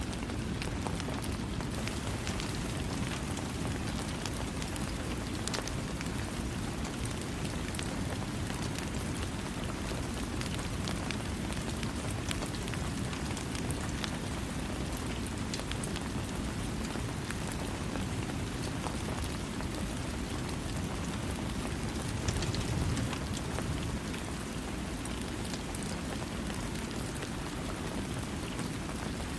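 Steady rain falling without thunder, with single drops tapping through the constant hiss; it swells briefly about three quarters of the way through.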